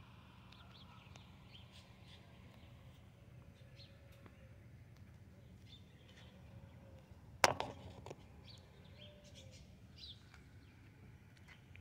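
Birds chirping faintly over a low steady hum, with one sharp knock about seven and a half seconds in.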